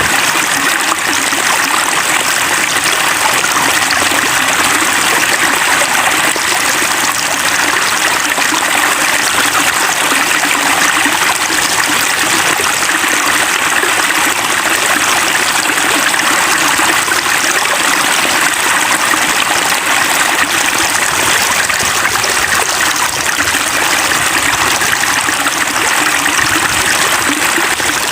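Steady rush of rain water pouring and running, an even hiss that does not let up.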